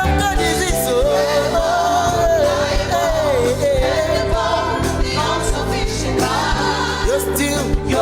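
Gospel song with a band and backing singers, a lead voice holding a long melismatic note over the accompaniment.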